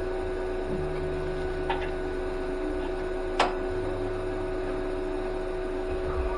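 A steady electrical hum with a low rumble underneath, and a single sharp tap about halfway through.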